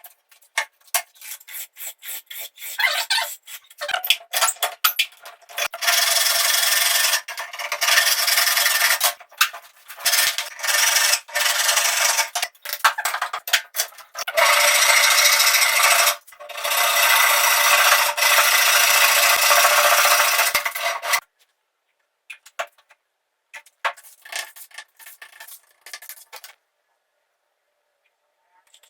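Filing or sanding the wooden blade of a cricket bat during repair. Short scraping strokes give way to long continuous abrasive passes, and a few faint scrapes follow about 21 seconds in.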